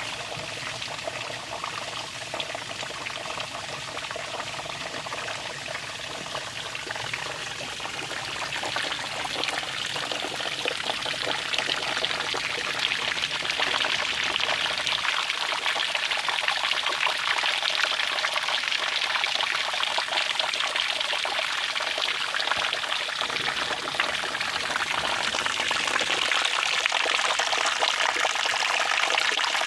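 Water running and splashing in a steady rush, growing louder about ten seconds in and then holding steady.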